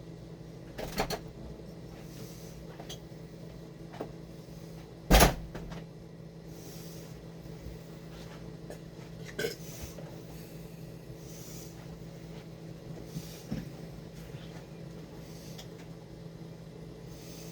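Scattered knocks and clatter of kitchen handling, a cupboard door or pans and utensils, with the loudest sharp knock about five seconds in, over a steady low hum.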